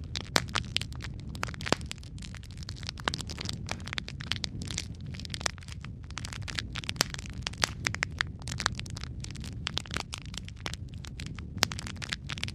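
Wood fire crackling: burning logs giving off many irregular sharp pops and snaps over a low steady rumble of flame.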